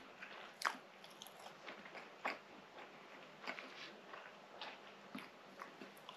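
A person chewing a mouthful of soft baked pastry close to the microphone: faint, irregular short wet clicks of the mouth, a little stronger about two-thirds of a second and two seconds in.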